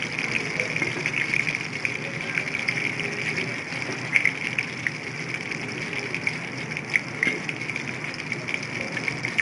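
Chicken lollipops deep-frying in hot oil: a steady sizzle with scattered crackles and pops.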